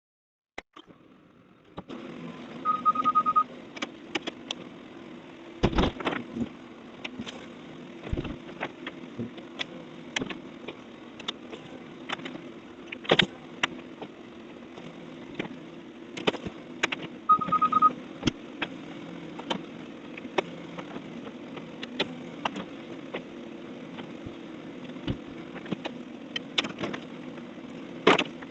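Heavy demolition machinery running steadily, with repeated knocks and crashes of debris. A short run of rapid beeps sounds twice, once about 3 seconds in and again about halfway through.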